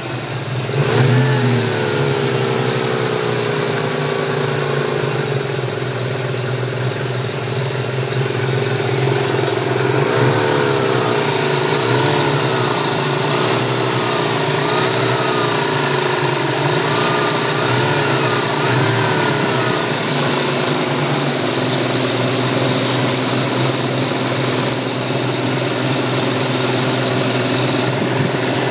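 1994 Ford Mustang's 5.0-litre V8 running at idle, blipped once about a second in, then given a string of short revs for about ten seconds before settling back to a steady idle. The accessory drive is whining, which the owner takes for the smog pump, with a squeak he puts down to the belt tensioner pulley.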